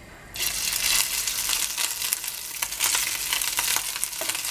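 A ladleful of rice, egg and ham mixture hitting hot oil in a terracotta pan, frying with a steady sizzle and crackling. The sizzle starts suddenly about half a second in.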